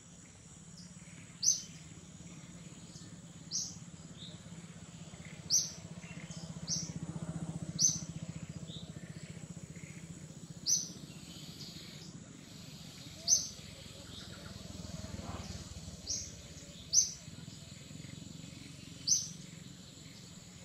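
A bird calling a short, sharp, high note over and over, about once every two seconds, over a faint steady background of outdoor ambience.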